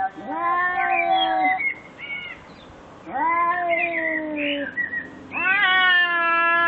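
A cat meowing in three long, drawn-out calls, each held for one to several seconds. The last call is still going at the end.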